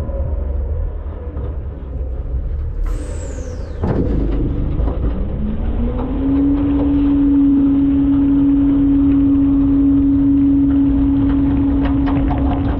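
Front-load garbage truck running with a low rumble. About three seconds in there is a short, falling high hiss, and a knock comes a second later. From about five seconds in, a steady drone rises a little in pitch and then holds level as the truck revs up.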